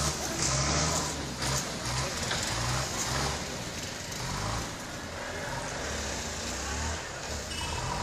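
A vehicle's engine running, a low hum that wavers up and down.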